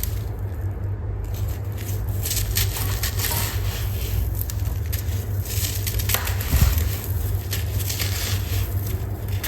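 Dry sand-cement clumps crumbling and being crushed, a continuous run of small crackles and crunches.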